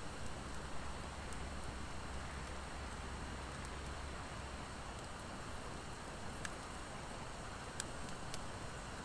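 Wood fire of driftwood and dry hardwood burning with a steady hiss, broken by scattered sharp pops and crackles, a few louder ones in the second half.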